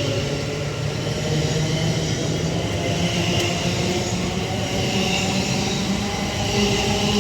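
London Northwestern Railway Class 730 Aventra electric multiple unit pulling away, its traction motors whining in several tones that rise slowly in pitch as it gathers speed, over a steady rumble of wheels on rail.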